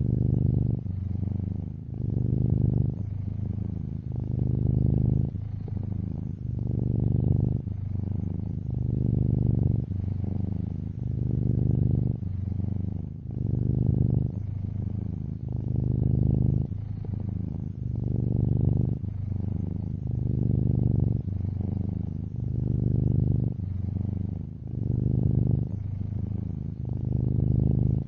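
Domestic cat purring: a steady low rumble that swells and fades in an even rhythm about every two seconds.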